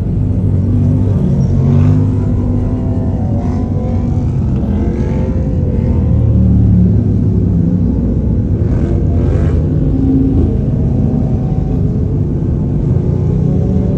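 Motorcycle engines running, with some revving: a loud low rumble whose pitch rises and falls.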